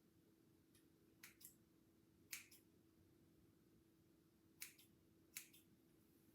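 Quiet haircut sounds: four crisp double clicks from hair-cutting tools over a faint steady hum.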